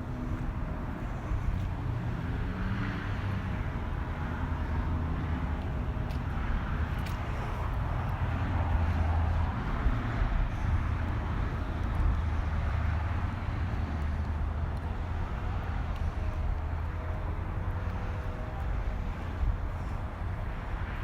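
Diesel engine of a 2014 International ProStar semi-truck running steadily at idle, with a low, even drone.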